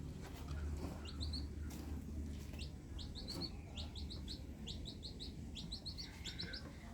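Birds chirping: quick, short rising chirps in clusters of three or four, over a steady low rumble.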